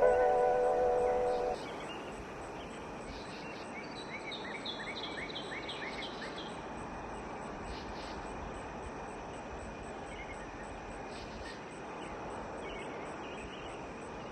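Sustained ambient music chords cut off about a second and a half in, leaving an outdoor nature recording: a steady hiss of background ambience. A bird gives a quick run of about eight chirps around the middle, with a few fainter chirps later, and a faint high pulsing runs throughout.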